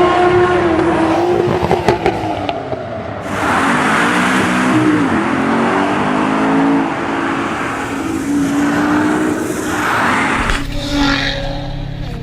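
Car engine revving hard, its pitch dipping and climbing, over a loud rushing noise that sets in about three seconds in. Near the end it gives way to a lower, steadier engine note.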